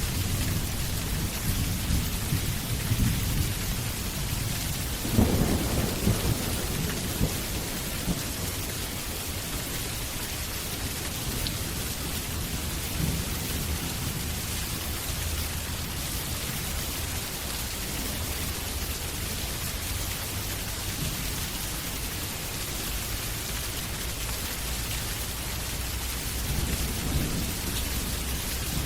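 Steady heavy rain with rolling thunder, including a sharper thunderclap about five seconds in, after which the thunder fades to a low rumble under the rain.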